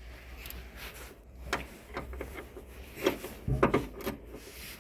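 Metal hand tools clinking and knocking as a Torx tool is fitted to a shock absorber bolt: a few irregular sharp knocks, the loudest cluster about three and a half seconds in, over a low steady hum.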